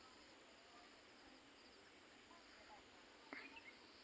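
Near silence: faint rural outdoor ambience with faint, steady insect chirping and a soft click about three seconds in.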